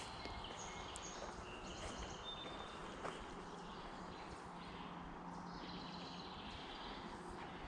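Wild birds giving short, high chirps and whistled notes in the woods over a steady background hiss.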